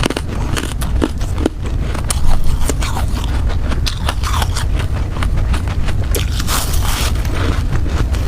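Crunchy ice being bitten and chewed close to the microphone: irregular cracks, crackles and scraping over a steady low rumble.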